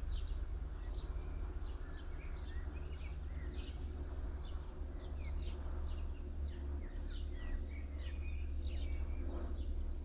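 Small songbirds chirping and twittering, many short quick calls one after another, over a steady low rumble.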